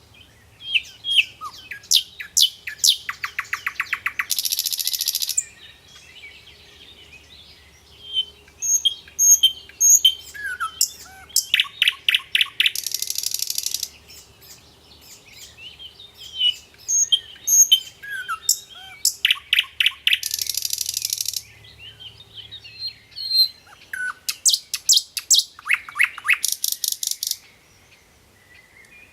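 A songbird singing: repeated phrases of sharp, rapid chirps and quick note series, each ending in a loud buzzy trill, four times with short pauses between.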